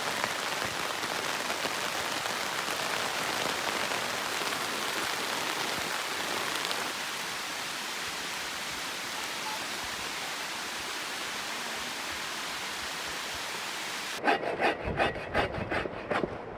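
Steady, even rush of water noise. About fourteen seconds in it cuts off and gives way to a quick run of sharp clicks and knocks.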